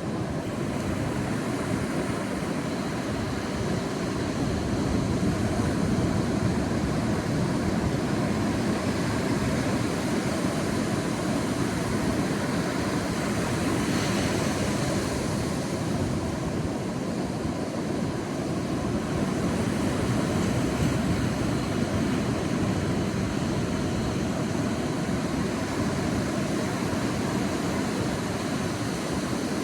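Sea waves breaking and washing on a beach, a steady surf noise that swells and eases every several seconds.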